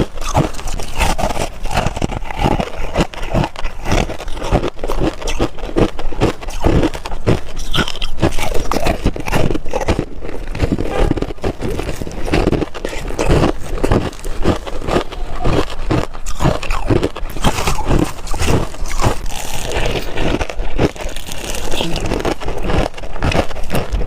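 Crushed ice being chewed close to the microphone: a dense, continuous run of crisp crunches and cracks, several a second.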